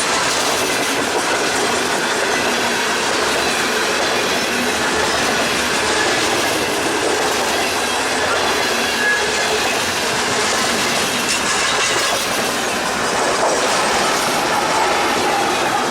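Freight cars rolling past at speed: a steady rumble and rattle of steel wheels on the rails, with faint wheel squeal.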